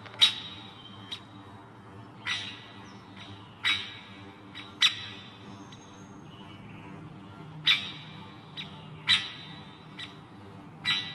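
Birds giving short, sharp calls at irregular intervals, about one every second or two, some louder and some fainter.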